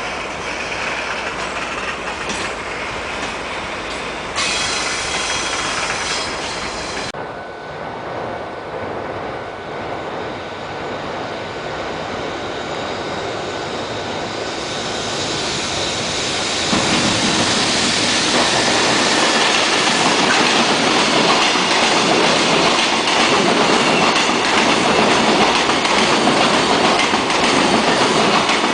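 JR Freight container train running along the track, its wheels rolling and clattering over the rails. The sound grows louder about halfway through and stays loud to the end.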